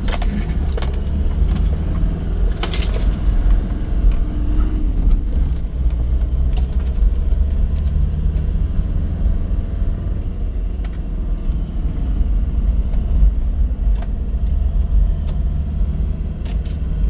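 Off-road vehicle driving over a rough mountain track: a steady low engine and road rumble with scattered rattles and knocks.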